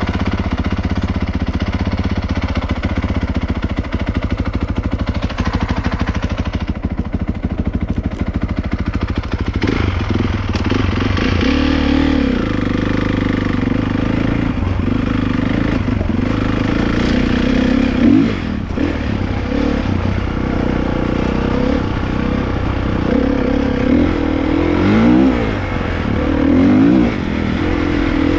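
Dirt bike engines running and revving, with a fast rattling beat for the first ten seconds or so, then the engine pitch repeatedly rising and falling as the throttle is worked.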